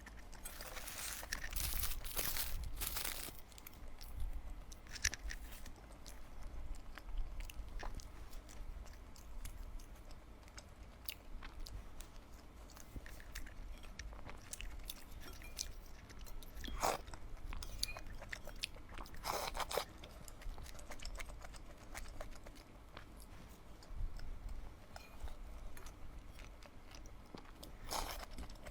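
A person eating close to the microphone: chewing and biting with several louder crunching bites, the strongest about two seconds in and again later on.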